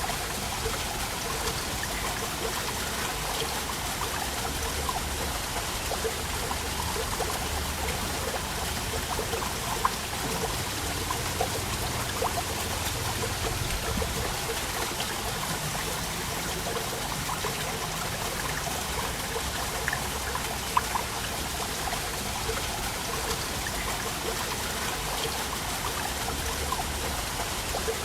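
Waterfall: a steady rush of falling water, with small splashes and trickles standing out now and then.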